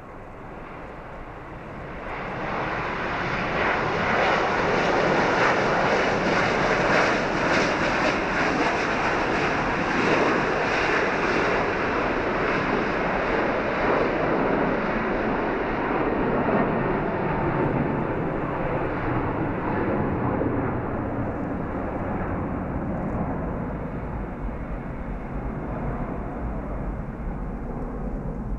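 Jet airliner's engines: a rush of engine noise that builds over the first few seconds, stays loud for a long stretch, then slowly fades.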